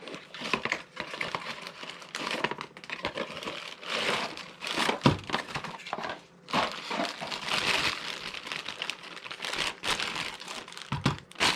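Wrapping crinkling and rustling as it is handled, with scattered small clicks and knocks, as a model train caboose is unwrapped by hand.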